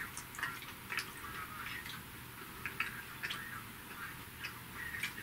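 Faint chewing of a bite of chocolate candy bar: scattered soft clicks from the mouth.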